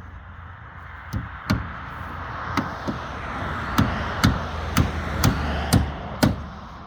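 A hammer striking wood, about ten sharp blows: a few spaced-out strokes at first, then a steadier run of about two blows a second, as when nails are driven into timber boards.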